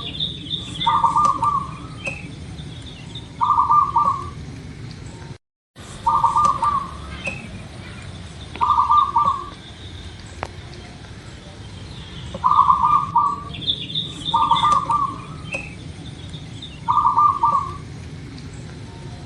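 Zebra dove (perkutut) cooing: seven short rolling, trilled coos, one every two to three seconds, with thin high chirps between them. The sound cuts out completely for a moment about five seconds in.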